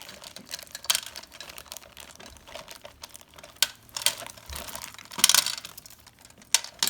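Small plastic toy gumball machine being handled and put together: scattered plastic clicks, knocks and rustles, loudest a little after five seconds in.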